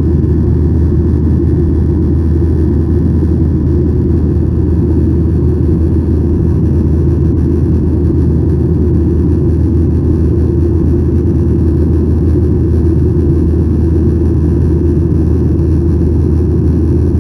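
Boeing 737-900ER airliner heard from inside the passenger cabin: the steady, loud low rumble of its CFM56 jet engines and airflow, unchanging throughout.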